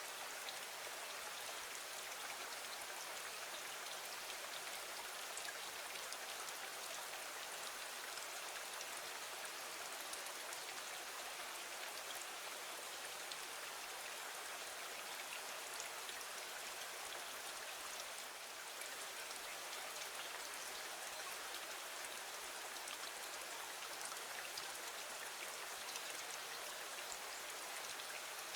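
Steady rain falling against a window, an even hiss dotted with faint scattered ticks of drops.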